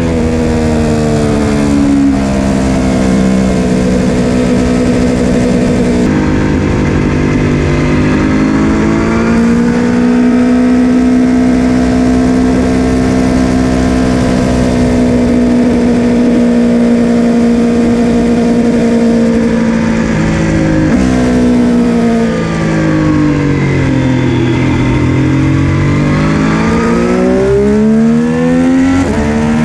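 Exhaust of a Triumph Street Triple RS 765 inline three-cylinder, running on its stock muffler with the secondary catalytic converter removed. The engine note holds steady for long stretches with a few steps in pitch, falls away about two-thirds of the way through, then climbs again near the end.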